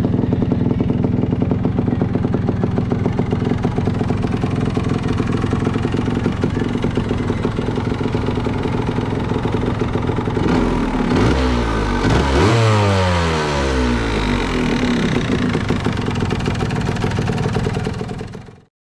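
Yamaha DT 125's single-cylinder two-stroke engine, breathing through a modified exhaust tip, running steadily. About halfway through it is revved up and down several times, then settles back to a steady note, and the sound cuts off suddenly just before the end.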